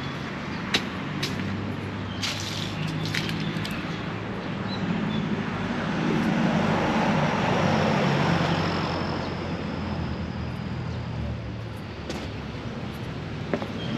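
A motor vehicle's engine running steadily with a low hum. It swells to its loudest between about six and nine seconds in as it passes close, then eases off. A few sharp clicks stand out.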